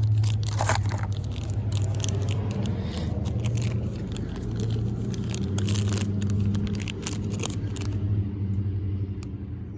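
A steady low mechanical hum that swells and fades every second or so, with light clicks and scrapes from handling over it.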